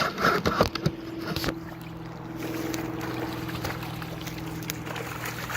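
A steady motor hum runs from about a second and a half in, with a few knocks and handling clicks before it.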